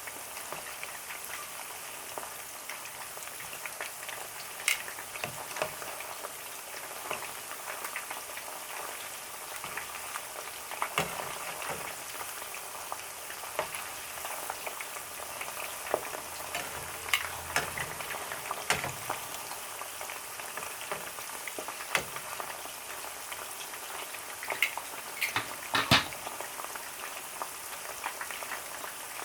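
Food deep-frying in hot oil, a steady sizzling hiss, with occasional sharp clicks and taps scattered through it.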